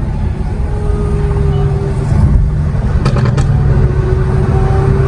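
Lamborghini Aventador SVJ's V12 engine and exhaust pulling hard, the pitch climbing slowly. About three seconds in the tone drops briefly with a short crackle, then climbs again.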